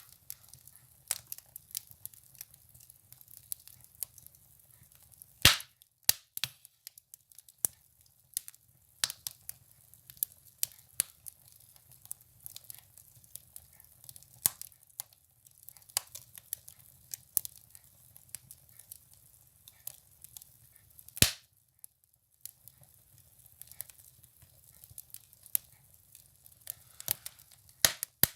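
Firewood burning in a stove, crackling with irregular sharp snaps and two much louder pops, one about five seconds in and one about twenty-one seconds in.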